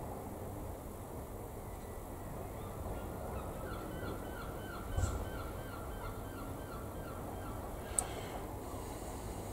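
A bird calling in a quick run of short, repeated notes, about three or four a second, lasting a few seconds. A dull thump comes about halfway through and a sharp click near the end, over a steady background hiss.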